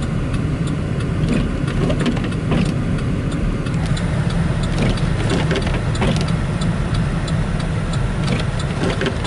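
Car driving at road speed, heard from inside the cabin: a steady low rumble of engine and tyres, with scattered light ticks.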